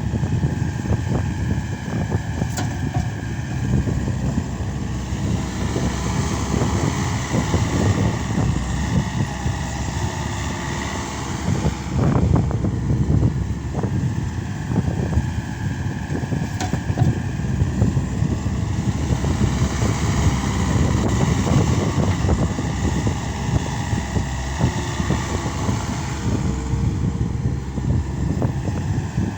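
Case SR200 skid steer loader's diesel engine running under load, its speed rising and falling as it works, with occasional sharp knocks.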